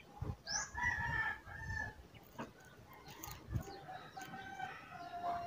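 Faint bird calls: one drawn-out call about half a second in lasting over a second, then a longer, fainter call from about three seconds in, with a few soft knocks in between.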